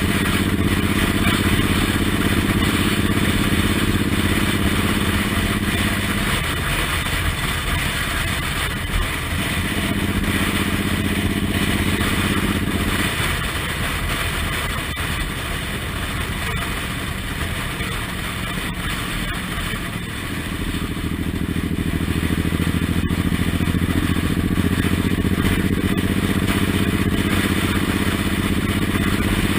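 Suzuki Intruder M1800R's big V-twin running under way, buried in heavy wind noise on the microphone. Its note falls away twice, from about six to nine seconds in and again from about thirteen to twenty, as the throttle eases, then comes back strong.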